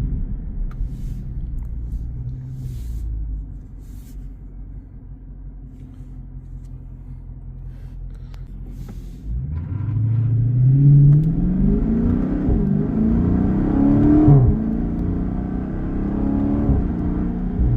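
Chrysler 300C's 6.4-litre HEMI V8 running steadily, then quieter at a light cruise for several seconds. About nine seconds in the throttle opens hard and the revs climb sharply, rising again in several steps as the automatic shifts up, before holding steady and louder near the end.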